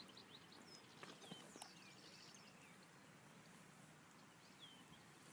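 Faint birds chirping over quiet outdoor background hiss, with a few short, falling chirps scattered through.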